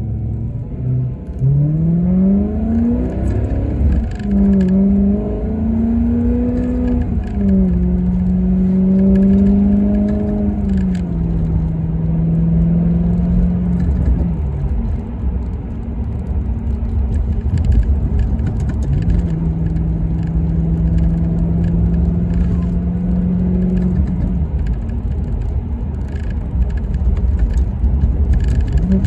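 Maserati Quattroporte V8 engine accelerating hard: the revs climb quickly over the first few seconds, drop at upshifts about four and seven seconds in, then settle into a steady drone at a constant pitch. Near the end the revs rise again.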